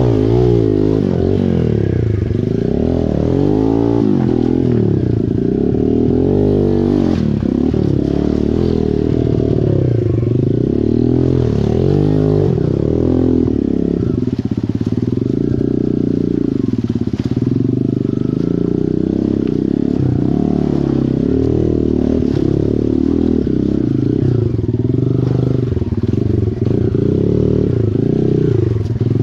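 Small dirt bike engine revving up and down constantly, its pitch rising and falling every second or two as it picks its way over river rocks.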